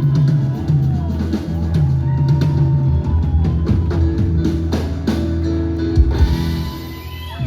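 Live band music from a drum kit and guitar, with a steady beat. Heavy accented hits come about six seconds in, as the song winds down to its close.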